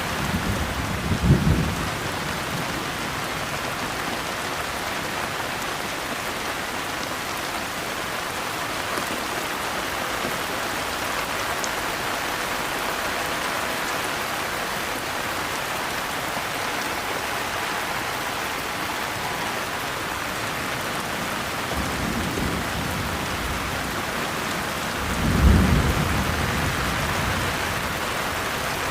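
Steady rain falling, with low rumbles of thunder: a short one about a second in, and another that builds near the end into the loudest moment.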